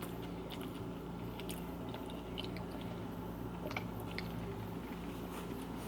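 A person chewing a bite of bacon BLT sandwich close to the microphone, with faint scattered wet mouth clicks over a steady low hum.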